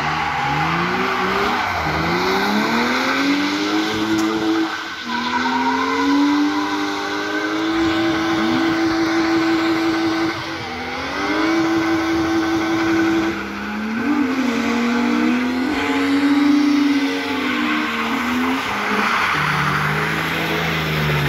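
BMW M52 straight-six engines revving hard while drifting, the revs climbing and falling and held high for a few seconds at a time. Spinning rear tyres squeal and hiss under the engine note.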